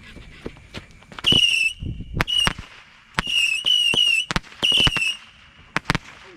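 Consumer fireworks going off: about five short, shrill whistles of roughly half a second each, one after another, mixed with several sharp pops.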